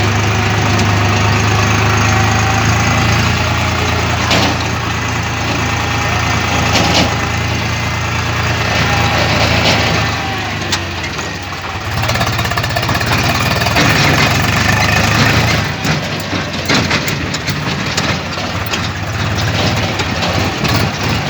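Tractor diesel engine running steadily at idle, with a run of sharp clattering knocks in the last few seconds.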